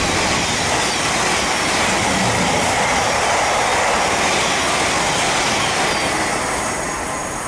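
Thameslink Class 700 electric multiple unit passing at speed: a steady rush of wheel and rail noise that eases a little near the end.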